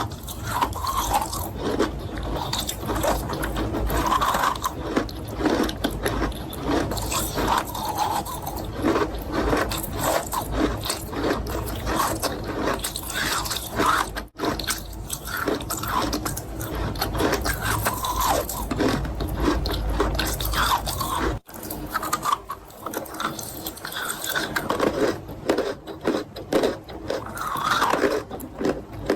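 A person crunching and chewing chalk with paste close to the microphone: dense, irregular crunching and scraping bites. The sound breaks off for a moment twice.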